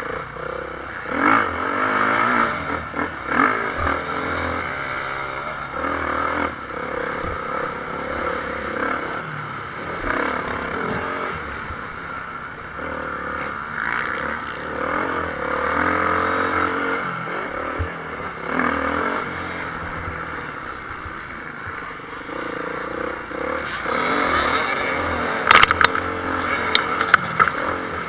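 Motocross motorcycles racing on the track, engines revving up and down as riders accelerate and shift. A few sharp clicks break in near the end.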